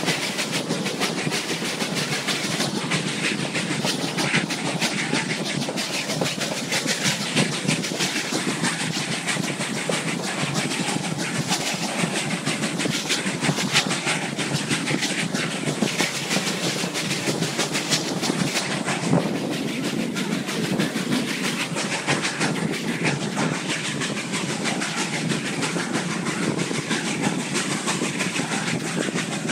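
Narrow-gauge railroad cars running along the track: a steady noise of wheels on rails, thick with rapid clicks and rattles.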